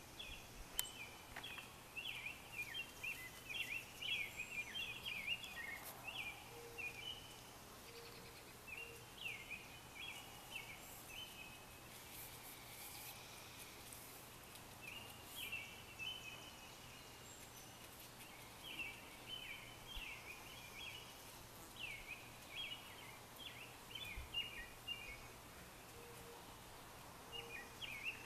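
Small birds chirping and twittering in short runs of quick high notes, with pauses between the runs, over a faint steady background hum.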